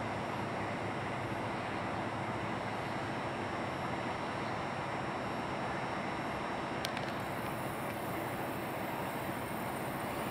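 Slow-moving excursion train rolling past, a steady rumble with the low hum of an EMD SW1 switcher's 6-cylinder 567-C diesel engine; a single sharp click about seven seconds in.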